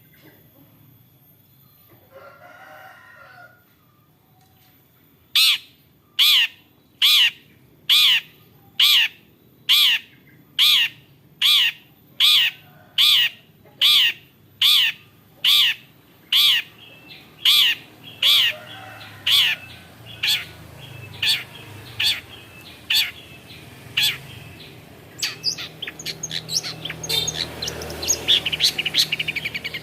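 Long-tailed shrike calling: a long series of loud, evenly spaced notes, each sweeping down in pitch, just over one a second, turning into a faster chattering song near the end.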